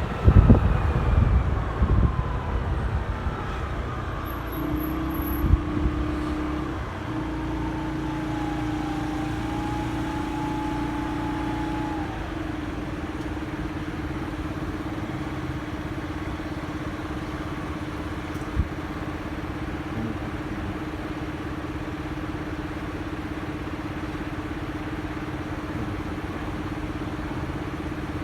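Motorcycle engine winding down as the bike slows, its pitch falling, then idling steadily at a stop. A single sharp click comes about two-thirds of the way through.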